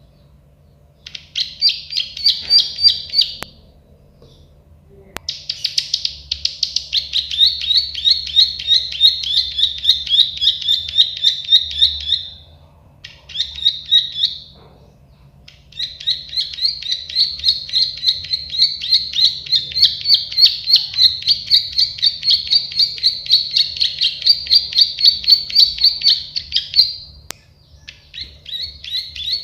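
Prenjak sawah (a prinia) singing long runs of rapid, evenly repeated high notes, about four a second. It sings four phrases of several seconds each with short pauses between them, the longest lasting about ten seconds.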